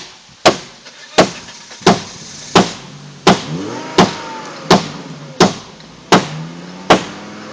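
Hammer pounding on a stalled car to get it running again: ten hard, evenly spaced blows, about one every 0.7 seconds, each with a short ring.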